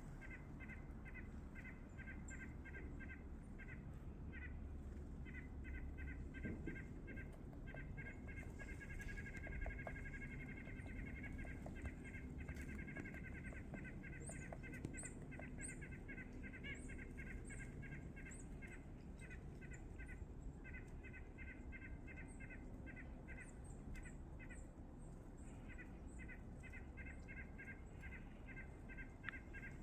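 A bird sound: long runs of short, evenly spaced high notes, several a second, with brief pauses, and a faint tap now and then.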